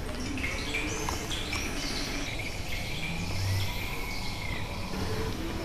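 Birds chirping: several short, arching calls over a steady background hiss.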